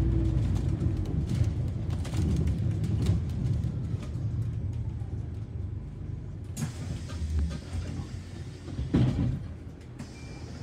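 Inside a London double-decker bus: engine and road rumble with rattles and knocks from the bodywork. The rumble eases off over the last few seconds.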